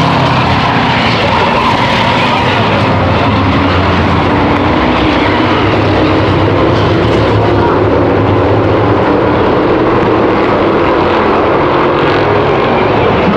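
A pack of V8 stock cars and race trucks lapping an oval track, their engines running hard. The result is a loud, steady, overlapping drone.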